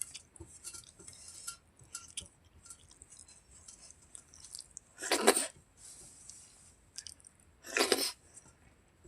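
Close-up eating sounds from chicken skin curry and rice: scattered small wet mouth clicks and chewing, with two louder, longer wet smacks about five and eight seconds in.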